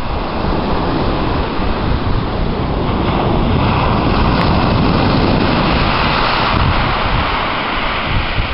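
A gentle sea wave breaking and washing up and back over a shingle beach, its hiss swelling about midway and easing near the end. Wind buffets the microphone with a low rumble throughout.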